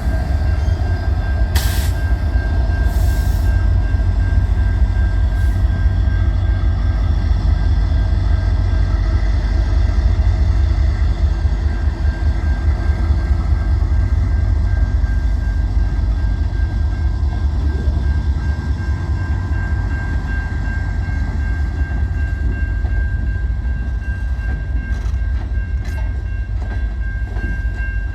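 Freight train rolling by: a heavy steady rumble of rail cars, with a thin steady high whine throughout and a few sharp clicks, clustered near the start and near the end.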